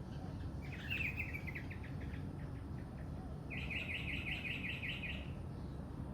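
A bird singing two trills of rapid repeated notes, the first fading away and the second, louder one at about seven notes a second, over a steady low background rumble.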